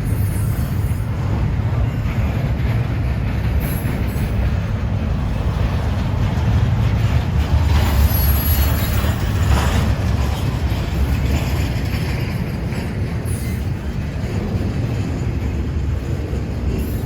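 Freight train cars rolling past on the rails: a steady low rumble, a little louder around the middle.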